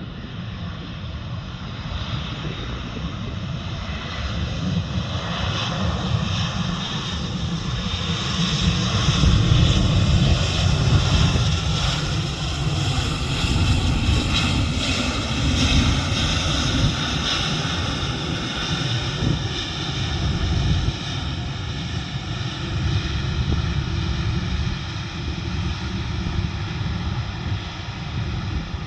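Jet airliner's engines, a deep rumble with a high whistling whine, growing louder to a peak about ten to sixteen seconds in and then slowly fading as the aircraft goes by.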